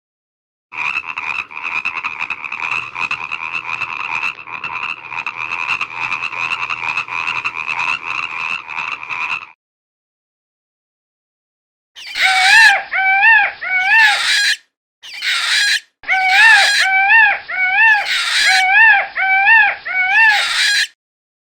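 Animal calls in two cut-together clips. First comes a rapid, pulsing call held for about eight seconds. After a silent gap, a run of repeated pitched calls follows, about two a second, broken by short pauses.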